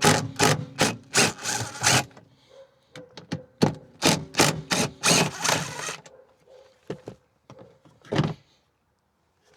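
Repeated sharp clicking and knocking of a tool working a 14 mm bolt loose, in two runs of about three strokes a second, then a few single knocks near the end.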